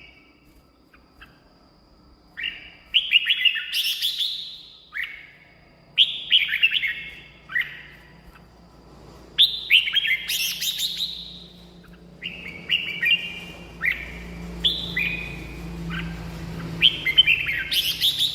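Red-whiskered bulbul singing in short, quick phrases with brief pauses between them, about half a dozen phrases in all.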